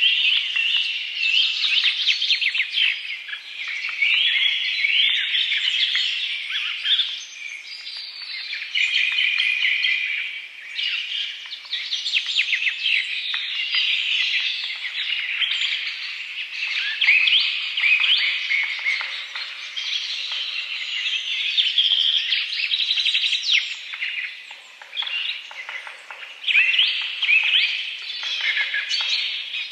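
Birds chirping and singing without a break: several overlapping calls and rapid high trills.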